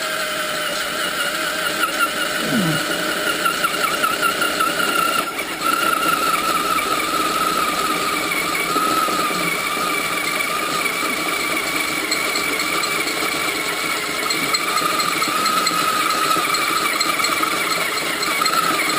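Small cordless craft drill running under load, its bit cutting through the soft plug inside a stock motorcycle muffler: a steady, wavering motor whine with a brief break about five seconds in.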